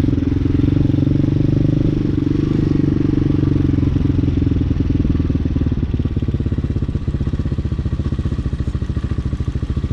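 Hawk 250cc motorcycle engine running while being ridden. About six seconds in, the revs drop and it settles into a lower, evenly pulsing beat.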